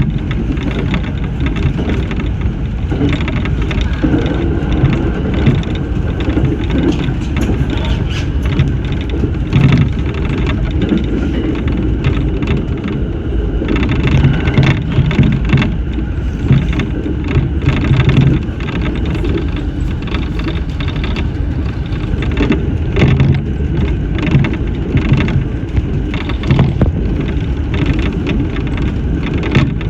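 Electric train running along the line: a steady rumble of wheels on rail with short knocks scattered through it.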